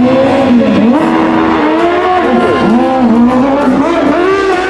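Harley-Davidson motorcycle engine revving, its pitch rising and falling repeatedly.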